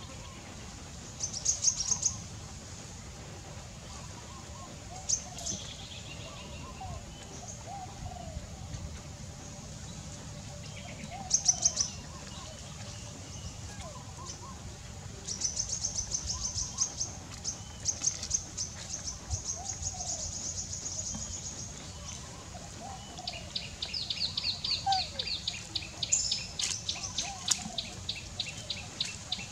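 Wild birds chirping in short, high, rapid trills, with a faster run of repeated chirps in the last few seconds.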